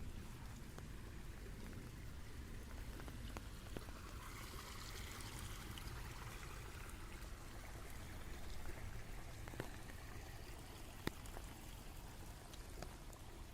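Rain falling, a steady hiss with scattered sharp drops ticking close by. The hiss swells for a few seconds in the middle, then settles back.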